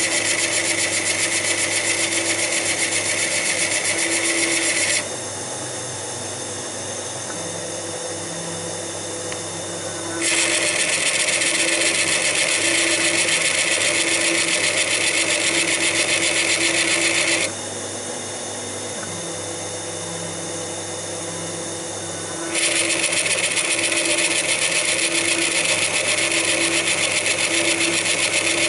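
HMT CNC T70 lathe turning a wooden workpiece: the machine hums steadily while the cutting tool takes three long passes, each a loud hissing cut lasting five to seven seconds, with quieter stretches of hum only between the cuts.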